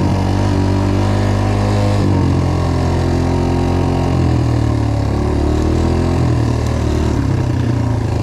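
An engine running steadily, its pitch dipping and rising a little now and then.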